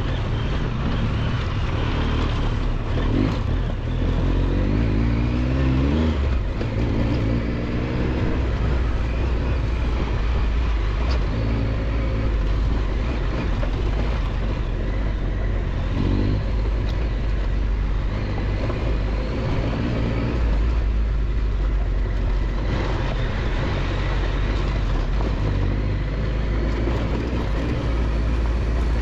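Triumph Tiger 1200 XCX motorcycle's three-cylinder engine running under the rider, its revs rising and falling again and again over a continuous low rumble.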